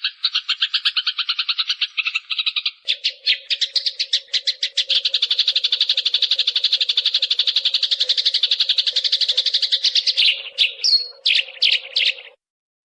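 Eurasian tree sparrow (burung gereja) calling in a fast, tight chattering trill of about ten notes a second, with a steady low hum under it from about three seconds in. Near the end the trill breaks into separate chirps with one short whistle, then cuts off suddenly.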